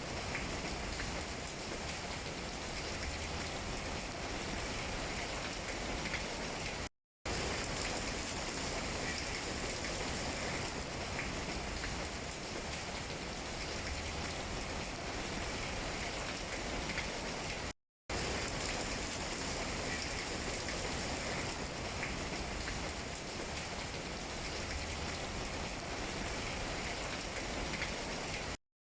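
Steady rain falling on tree leaves, an even patter. The sound cuts out completely for a split second three times, about every eleven seconds.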